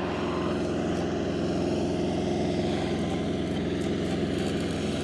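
Engine of a tow-behind welder generator running steadily under a welding load, with the crackle of a stick-welding arc over it.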